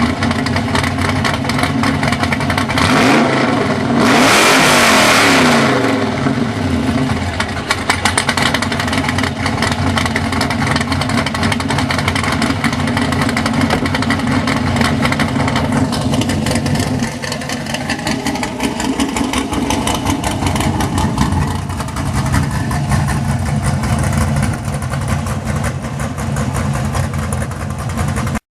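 Cammed LS1 5.7-litre V8 of a 2004 Pontiac GTO idling through long-tube headers and a MagnaFlow 3-inch cat-back exhaust. About four seconds in it is blipped once, loudest there, and the revs fall back to idle over the next couple of seconds.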